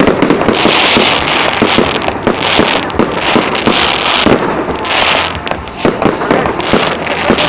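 Fireworks display going off: a rapid, continuous string of bangs and crackling, with repeated bursts of hiss.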